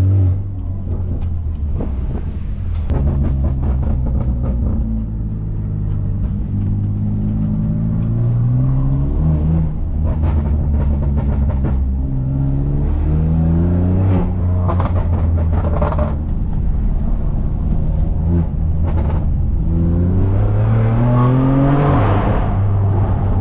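BMW S55 twin-turbo inline-six of an F80 M3 with catless downpipes and an open valved axle-back exhaust, loud, rising in pitch over several pulls with drops between them at the gear changes. A run of crackles and pops comes in the middle. The strongest pull comes near the end and drops sharply.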